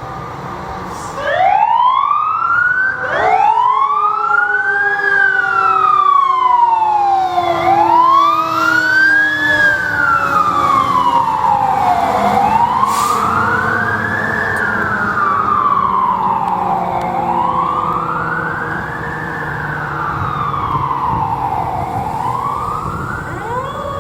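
Fire engine siren starting up about a second in and then wailing, rising and falling slowly about every four to five seconds. A second siren tone starts to rise near the end, over the low rumble of the truck.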